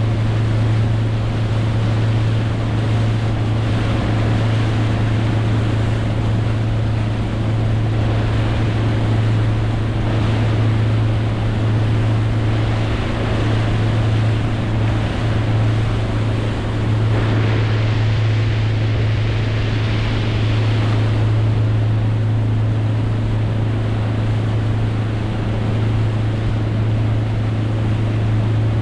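Boat engine running at a steady speed, a constant low drone, under the rush of water and wind on the microphone; the hiss swells for a few seconds past the middle.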